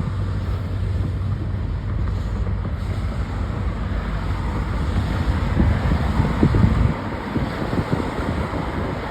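A train running past with a steady low rumble that eases about seven seconds in, with wind buffeting the microphone.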